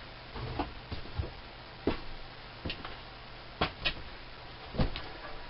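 Scattered light knocks and clicks, about eight spread unevenly over a few seconds, as tools and metal parts of a lathe tool post are handled on a workbench, over a faint low steady hum.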